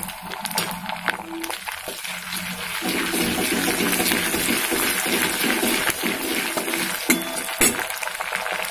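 Onions with ginger-garlic and green chilli paste sizzling in hot mustard oil in a metal kadai as a steel spatula stirs and scrapes them. The sizzle grows fuller about three seconds in, and the spatula clicks sharply against the pan a few times near the end.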